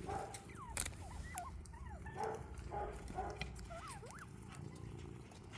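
Bobwhite quail calling softly: a scatter of short whistled notes that slide up or down in pitch, mixed with brief chirps.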